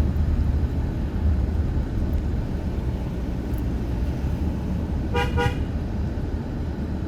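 Steady low rumble of a car driving, heard from inside, with a short car horn honk about five seconds in: a warning toot on a narrow, winding single-lane mountain road.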